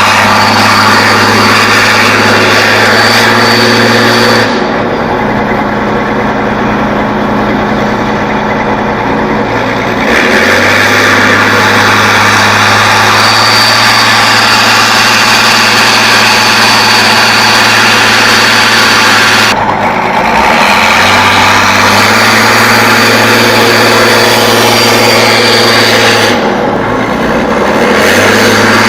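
Off-road truck engine running hard and steady under load. It eases off three times, the longest for about five seconds, then picks up again each time.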